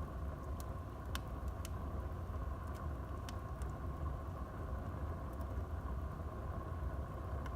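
Wood fire burning in a fireplace: a steady low rumble and hiss of the flames, with scattered sharp crackles and pops, more of them in the first half.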